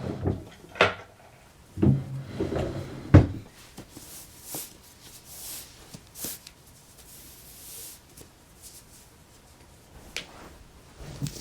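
A few sharp knocks and bumps, like a cupboard door or things being handled in a small room, the loudest about three seconds in, followed by faint rustling and light clicks, with two small knocks near the end.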